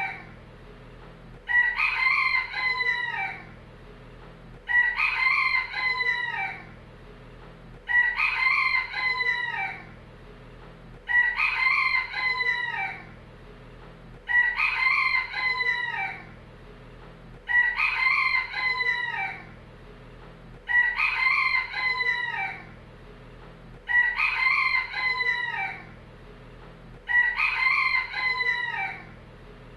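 Rooster crowing, one identical cock-a-doodle-doo repeated nine times at an even pace, about one crow every three seconds, each lasting under two seconds: a single crow looped.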